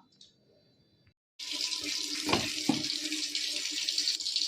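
Water running steadily from a kitchen tap into a sink, starting abruptly about a second and a half in, with two knocks shortly after.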